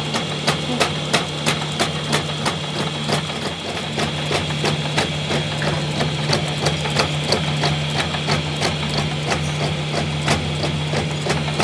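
Steady, even hammering on metal, about three blows a second, over the steady hum of a running machine.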